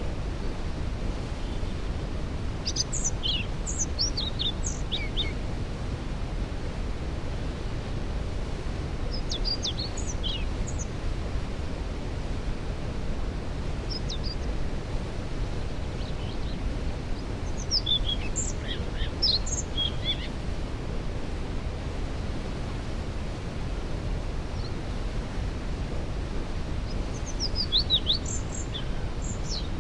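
Waterfall rushing in the background as a steady low noise, with songbirds singing short phrases every few seconds, about five bouts of song.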